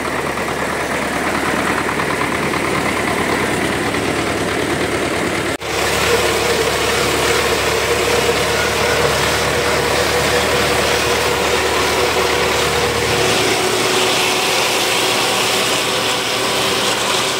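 Tractor engine running steadily while mowing hay, heard from the cab, with a steady whine over the engine noise; the sound cuts out for an instant about five and a half seconds in.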